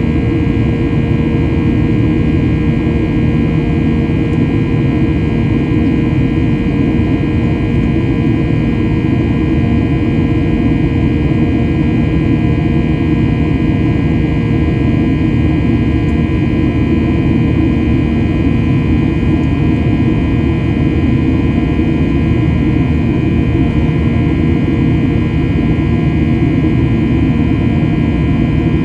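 Steady cabin noise aboard a Boeing 737-800: its CFM56 jet engines running at a constant setting, a deep rumble with a steady hum over it.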